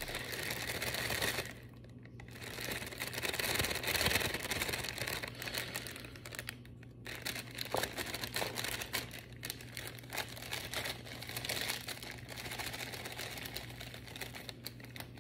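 Clear plastic bag crinkling and crackling as it is squeezed and handled, in irregular bursts of small crackles.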